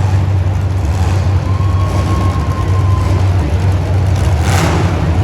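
Motor vehicle engine running with a steady low rumble, and a brief rushing noise about four and a half seconds in.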